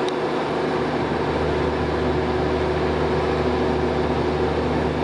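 Passenger train coaches rolling slowly past on the rails, a steady running noise with a low hum; a deeper drone comes in about a second in.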